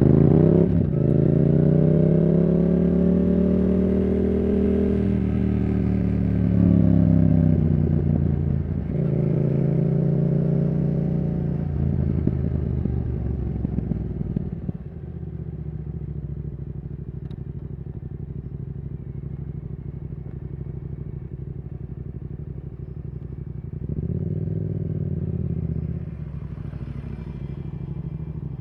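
Yamaha R7's CP2 parallel-twin engine through a Yoshimura R77 exhaust, pulling up through the gears with short dips in pitch at each shift over the first half. It then drops back to a quieter, steady low-rpm note, with one brief rise in revs about three quarters of the way through.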